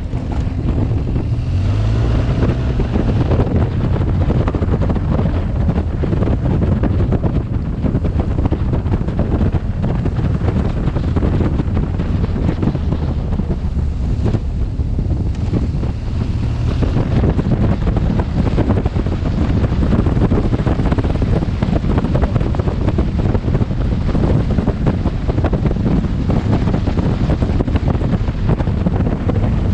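Heavy wind buffeting on a helmet-mounted camera's microphone at riding speed, steady throughout, with the BMW R 1200 GS's boxer-twin engine running underneath.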